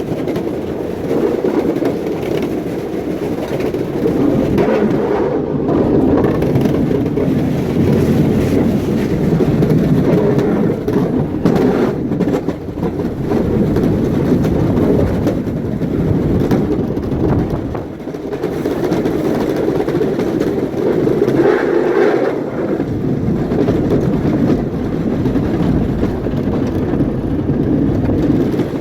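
Engine of a snow-clearing machine running steadily, loud and close, its level swelling and easing a little as the load changes.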